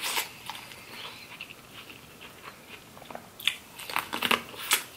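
Close-miked eating: chewing and lip smacks, with scattered wet clicks and a few sharper clicks in the last second and a half.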